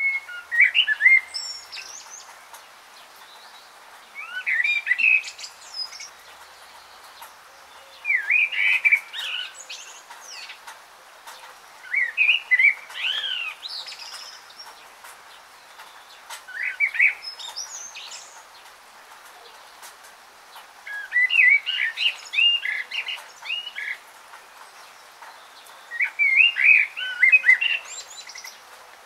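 A bird singing short phrases of quick chirps, one phrase about every four seconds, over a faint steady hiss.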